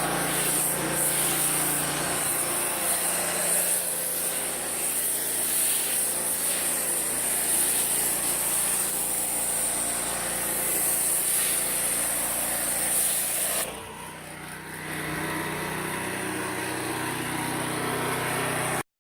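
Mercedes-AMG C63 engine running steadily with a high hiss over it; the sound drops about 14 seconds in, carries on more quietly, and cuts off just before the end.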